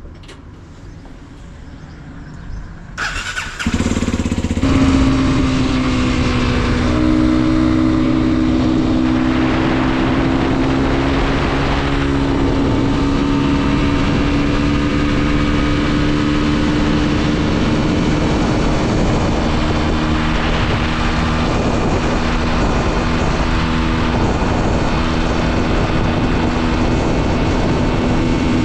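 Mondial SMX 125 motorcycle's single-cylinder four-stroke engine being started: a brief cranking sound about three seconds in, the engine catches at about four seconds, then it runs steadily at an even pitch.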